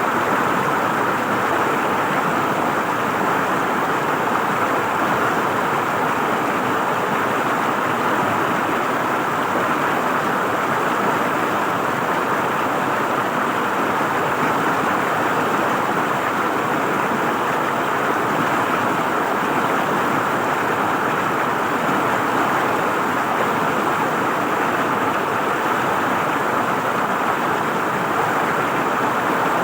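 River water flowing and gurgling over rocks, a steady rushing that holds an even level.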